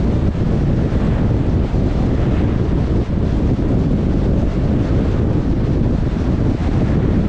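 Steady low rumble of road and wind noise from a moving car, with wind buffeting the microphone.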